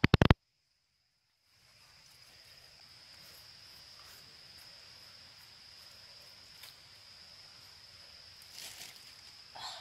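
A few sharp knocks at the very start, then, after a short silence, insects droning in one steady high tone over outdoor background noise, with a few faint taps and rustles.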